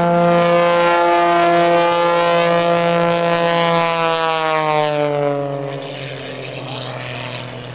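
Aerobatic Pitts S2S Viper biplane's 400-horsepower piston engine and propeller, a loud buzzing drone that drops in pitch about four to six seconds in as the plane passes and then fades.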